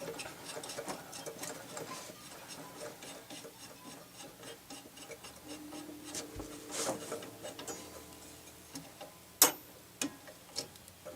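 Rapid ticking and rubbing of hand tools on the metal parts of a Rock-ola 443 jukebox mechanism as a part is worked loose, about five even ticks a second through the first half. A sharp, loud click comes about nine and a half seconds in.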